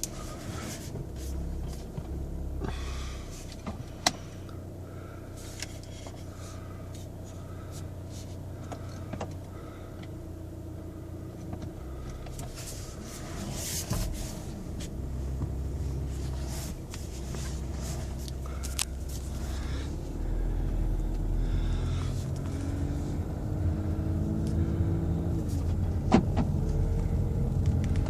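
Volkswagen Passat 2.0 TDI four-cylinder diesel running while warming up, with a few sharp clicks. In the last several seconds it grows louder and its pitch rises in steps, as if the engine is speeding up.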